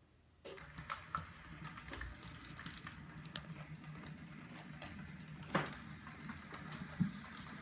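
Model train running on its track: a steady low motor hum with irregular clicking and clattering from the wheels and track, starting suddenly about half a second in.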